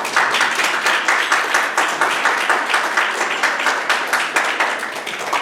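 Audience applauding, a dense run of hand claps welcoming performers onto the stage.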